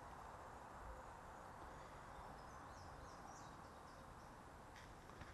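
Near silence: faint steady outdoor background hiss, with a few short, high bird chirps around the middle.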